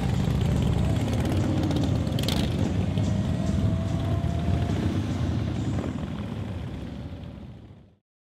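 Motorcycle engine running with a steady low rumble, fading out near the end.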